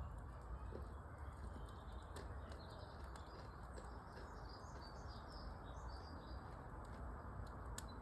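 Faint bird chirps over a steady low hiss, with a few sharp crackles from a fireplace fire.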